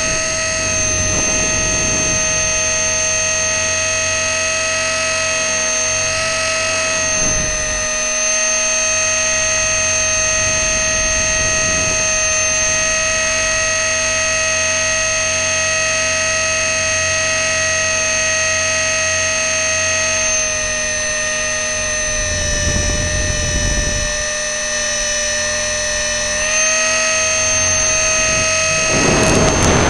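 Electric RC helicopter (E-flite Blade 400) in flight, heard up close from its onboard camera: a steady high-pitched motor and rotor whine at an even pitch, with several brief rushes of air noise and a louder rush near the end.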